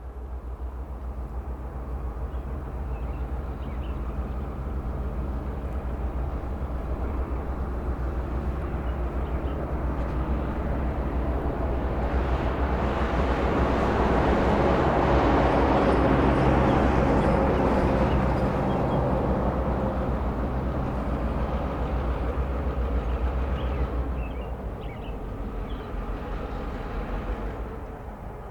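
A short freight train led by EMD diesel locomotives (a GP38 and an FP7A) passing: a steady low engine drone with wheel and rail noise that swells to a peak about halfway through and fades near the end.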